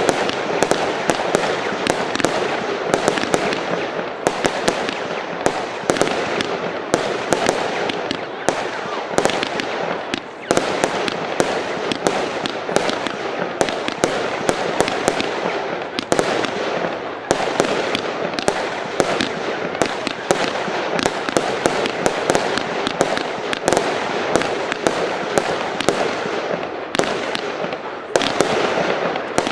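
A 100-shot consumer firework battery (the 'Ghost' cake) firing continuously, with rapid shots and bursts following one another many times a second.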